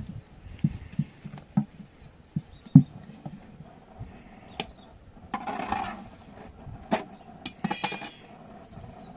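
Household handling sounds: several dull knocks in the first few seconds, a short scrape about halfway, and a ringing clink of a dish near the end.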